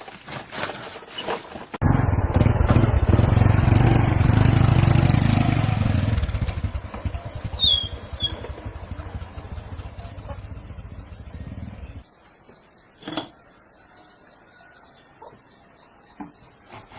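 A small engine starts loudly about two seconds in and runs steadily, then grows quieter and cuts off abruptly about twelve seconds in.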